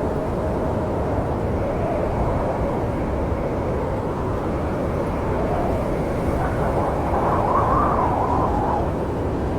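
Snowstorm wind blowing steadily with a deep rumble and a wavering howl that rises in pitch about seven seconds in, then falls back.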